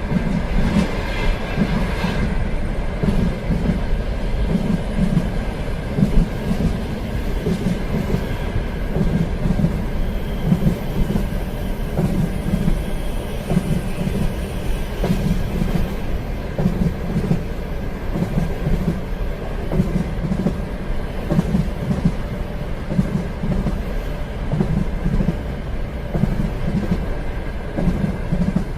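Passenger train running on rails, heard as a steady rumble with a repeated clickety-clack of wheels over rail joints.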